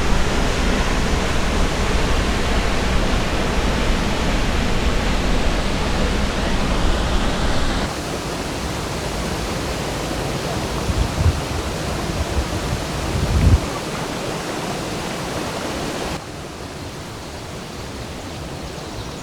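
Krimml Waterfalls' lowest cascade: water crashing and rushing through the rocks as a loud, steady roar of white water. The level drops in steps about 8 seconds in and again near the end, with a couple of brief low thuds in between.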